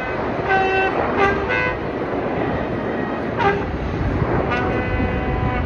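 Horns tooting several times in short blasts, then one longer blast lasting about a second near the end, over a steady outdoor din.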